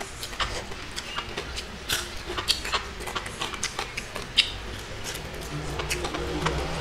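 Close-miked eating sounds: irregular wet clicks and smacks of chewing and lip smacking, a few a second, as rice and dried fish are eaten by hand. A low hum rises underneath from about five seconds in.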